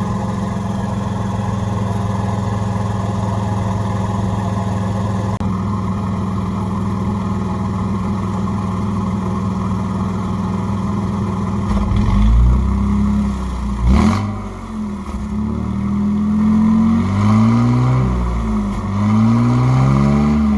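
1995 Ford F-150 engine running on open headers, exhaust cut off at the manifolds, from a cold start. It idles steadily, then about twelve seconds in is revved up and down several times.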